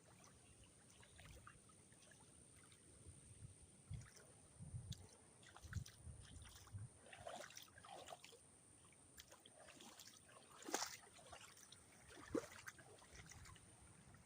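Faint, scattered sloshing and splashing of shallow floodwater, with soft low thumps now and then and a sharper splash about eleven seconds in.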